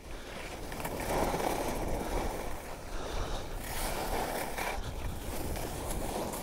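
Skis scraping and hissing over snow on a downhill run, starting right at the opening and running steadily, with wind buffeting the microphone.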